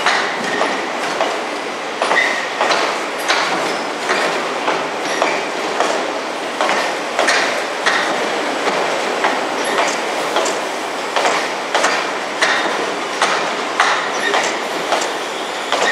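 Electric multiple-unit passenger train rolling slowly through the platform, its wheels clacking over rail joints about three times every two seconds, with short light wheel squeals.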